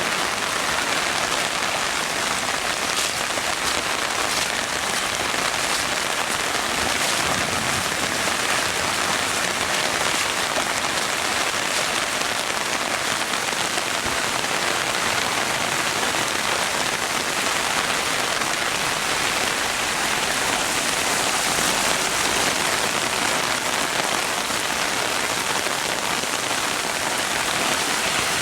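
Heavy rain falling steadily, an even hiss that neither builds nor dies away.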